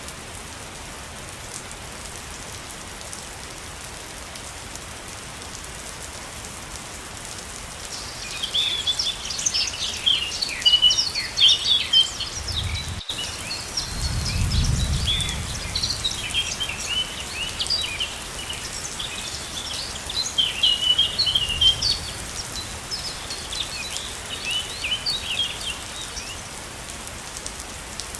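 Steady rush of a waterfall, joined about eight seconds in by birds chirping in quick, dense twitters that die away near the end. A low rumble swells briefly in the middle.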